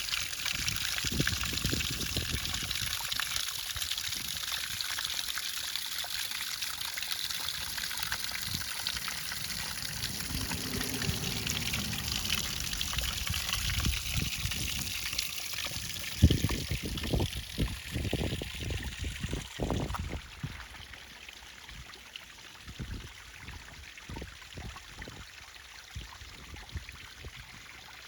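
Water pouring and trickling over the concrete shelves of a small DIY backyard waterfall, a steady splashing hiss. Bursts of low rumble come through about two-thirds of the way in, and just after them the water sound drops to a quieter trickle.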